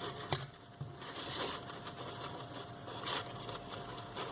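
Light rustling and handling of paper and card, with a sharp click about a third of a second in.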